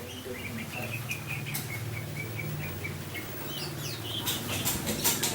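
Small birds chirping: a quick run of short repeated chirps, then a few quick sliding calls about four seconds in.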